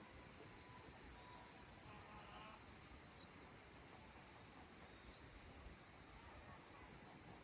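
Faint, steady high-pitched chorus of evening insects chirring in the countryside. About a second or two in, a faint distant animal call sounds briefly beneath it.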